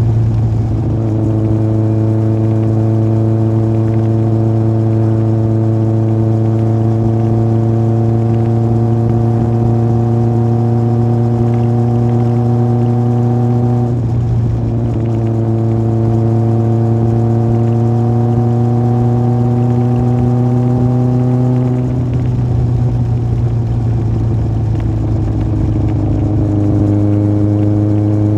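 Yamaha Fazer 1000's inline-four engine running through an aftermarket MIVV exhaust while riding: the note climbs slowly under steady throttle, dips at a gear change about halfway through, climbs again, then falls to a lower note for the last few seconds.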